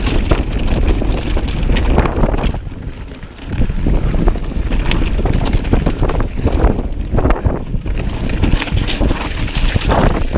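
Strong wind buffeting the microphone, mixed with the rattle and knocks of a mountain bike riding over loose rocks. The noise eases briefly about three seconds in.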